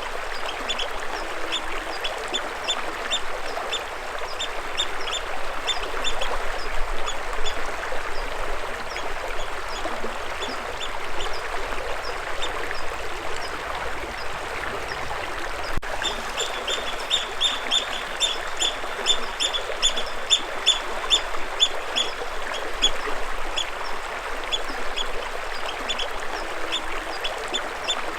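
Steady rush of moving water, with birds chirping in quick runs of short, high repeated notes throughout.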